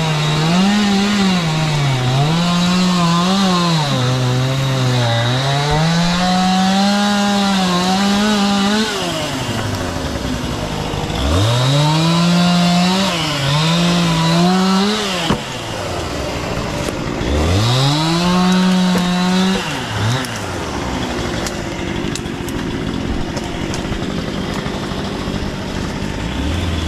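Chainsaw cutting wood, its engine pitch rising and sagging as the chain bites under load. The engine drops back toward idle a few times between cuts, and runs lower and rougher near the end.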